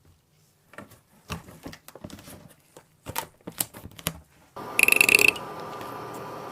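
Light clicks and knocks of handling, then a small electric machine switches on. It runs with a steady whir for about two and a half seconds, loudest at the start, before cutting off.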